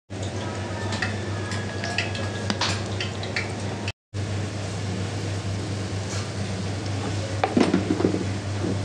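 Diced chicken frying and sizzling in a pan while a spatula stirs it and scrapes against the pan, with scattered clinks. A steady low hum runs underneath, and the sound drops out briefly about four seconds in.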